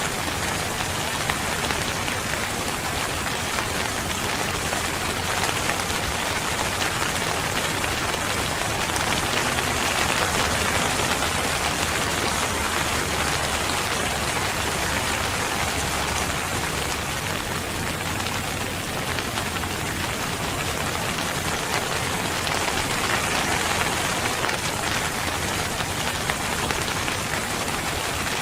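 Steady rain falling on a surface, a dense even patter of many fine drops with no thunder.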